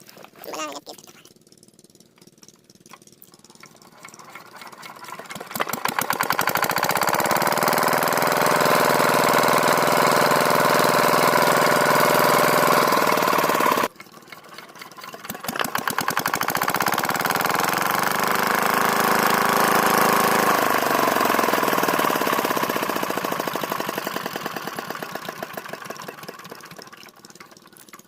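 Diesel water-pump engine running loudly with a rapid knocking beat. It breaks off abruptly about halfway, starts up again, then drops in pitch and fades away near the end.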